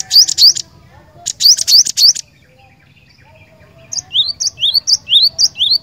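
Cinereous tit (glatik batu) singing: two quick bursts of sharp, high rising notes, then after a pause a run of about six rising whistled notes near the end.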